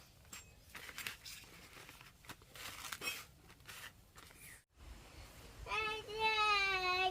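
Faint rustling and crinkling for about four seconds. After a short break, a child starts singing near the end, a held, wavering note.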